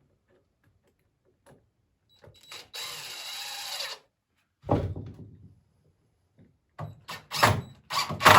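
Power drill driving a 2.5-inch screw into poplar: the motor runs for about a second, a few seconds in. Then come several knocks and clunks of wood and tools being handled, the loudest just before the end.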